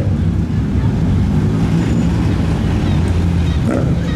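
A modified car's engine running with a steady low note as a lowered car drives slowly past at low revs.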